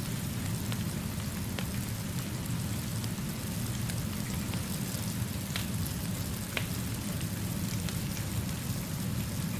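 Steady rainfall with a wood fire crackling, over a constant low rumble. A few sharp pops stand out now and then.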